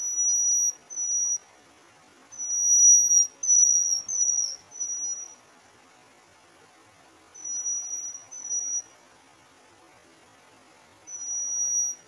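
Forktail at its nest giving thin, high-pitched whistled calls: about nine drawn-out notes in runs and pairs, a few ending in a slight downward slide.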